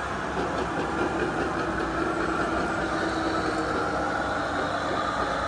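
Radio-controlled construction trucks running: a steady engine-like drone with a thin whine that climbs a little in pitch about halfway through.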